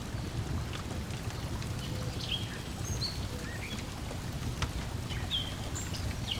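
Layered lakeside ambience: a steady low wash of water lapping, with a wood fire crackling in scattered sharp pops and short high bird chirps throughout.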